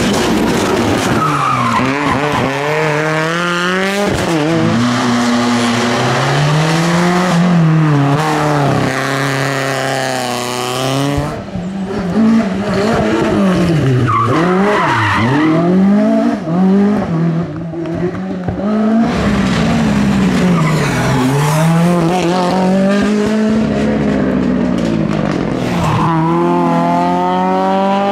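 Rally car engine revving hard, its pitch repeatedly climbing and dropping back through gear changes and lifts for corners.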